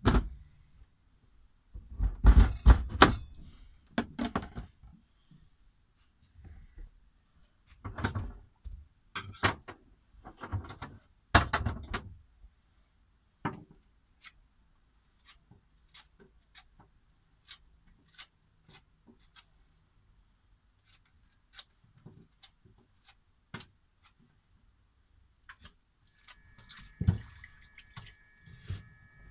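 Kitchen knife chopping celery on a cutting board. Clusters of loud chops fill the first dozen seconds, then lighter single strikes come about two a second.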